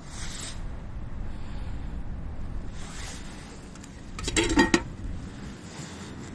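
A brief flurry of metal clinking and rattling a little past four seconds in, over a steady low background rumble.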